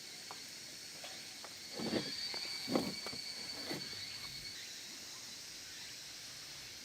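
Three soft thuds, like footsteps, about a second apart near the middle, over a steady high-pitched tone.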